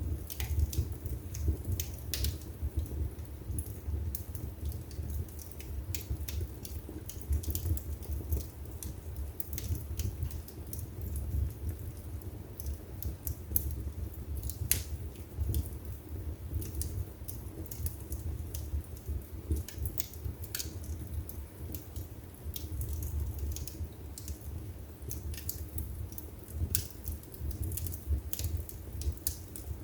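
Wood fire burning in a fireplace: a steady low rumble of the flames with frequent sharp crackles and pops from the burning logs, scattered irregularly.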